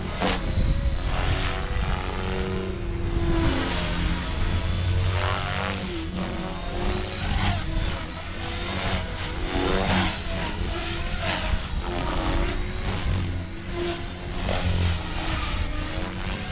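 RC helicopter flying, with a steady high-pitched whine that wavers slightly in pitch and rotor noise that swells and fades repeatedly as it manoeuvres.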